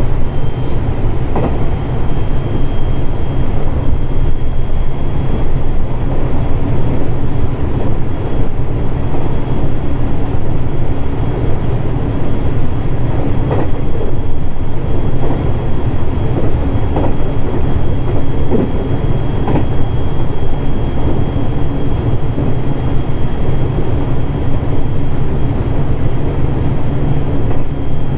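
Running noise of a JR 521 series electric multiple unit heard from inside the passenger car: a steady rumble of wheels on rail with a thin steady high tone. A few short knocks come from the track about a second in and again around the middle.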